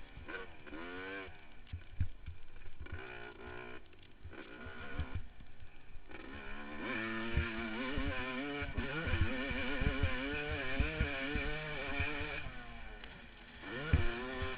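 Yamaha YZ250 two-stroke motocross engine revving up and down under riding, its note climbing and falling over and over, with low thumps mixed in. The engine drops off briefly near the end, then revs sharply back up.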